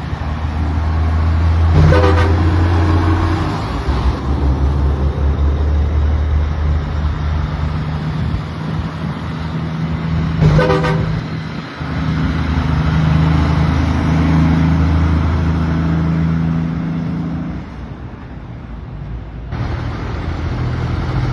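Heavy truck engine running at a steady low drone, with short pulsing horn blasts twice, about 2 and 10 seconds in.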